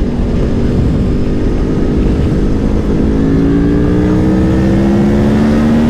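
Aprilia Tuono V4 Factory's V4 engine pulling under throttle, its note level at first and then rising steadily through the second half as the bike accelerates hard. Heavy wind rumble on the on-board microphone.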